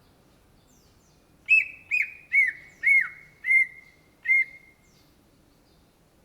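Greater green leafbird (cucak ijo) singing: a run of six loud, arched notes about half a second apart, starting about a second and a half in and stopping near the middle.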